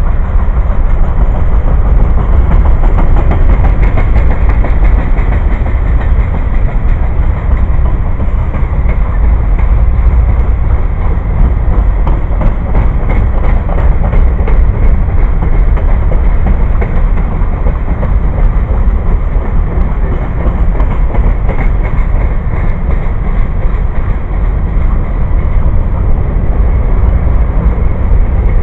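Train cars rolling past at close range: a loud, steady rumble and clatter of steel wheels on rail, unbroken throughout.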